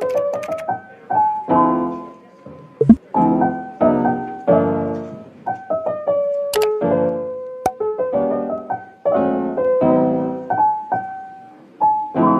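Background piano music: chords struck in a steady rhythm, each one ringing and dying away, with a few sharp clicks among them.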